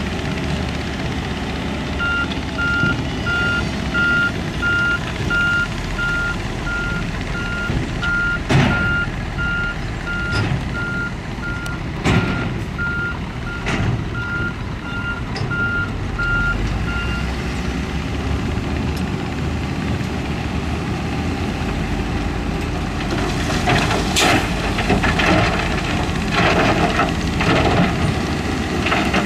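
A heavy construction machine's reverse alarm beeping at a steady pace, about one and a half beeps a second, for about fifteen seconds over the steady running of a diesel engine. A few sharp knocks come through in the middle, and rougher clattering near the end.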